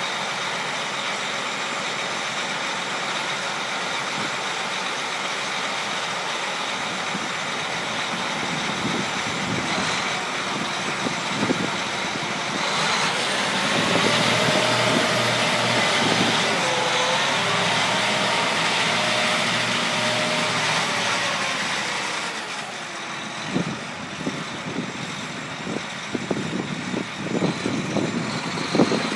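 John Deere 8235R tractor's six-cylinder diesel engine running, its speed rising and held higher for several seconds about halfway through, then settling back. Scattered knocks near the end.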